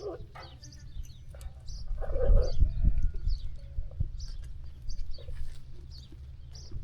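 Sheep farm ambience: a sheep bleats once about two seconds in, over repeated short chirps of small birds and a steady low rumble.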